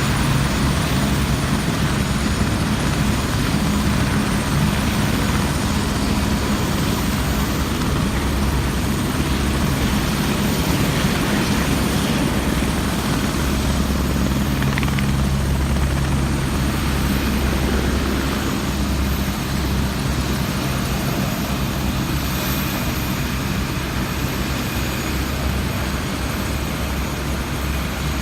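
Helicopter rotor and turbine noise, steady and loud, as heard from inside the cabin in flight.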